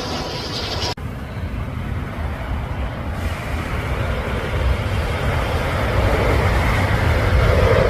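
Jet airliner approaching, its low engine rumble growing steadily louder after an abrupt break about a second in.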